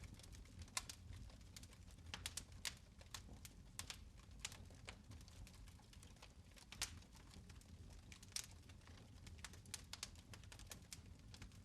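Fire in a fireplace crackling softly: irregular sharp pops and snaps, a few each second, over a low steady rumble.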